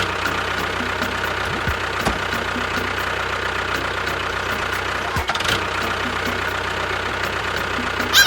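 Engine running steadily at idle, an even rapid putter with a low hum.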